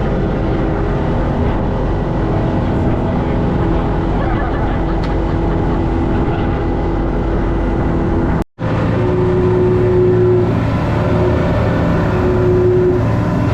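Fishing boat's engine running steadily under way, with wind noise on the microphone. The sound breaks off for a moment about eight seconds in, then the engine carries on.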